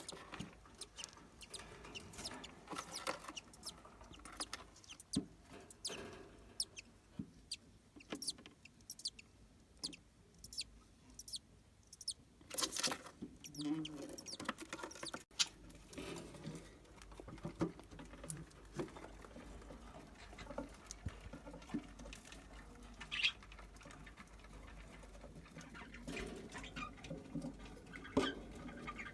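Budgerigar chicks chirping amid frequent short, irregular clicks and scratching sounds.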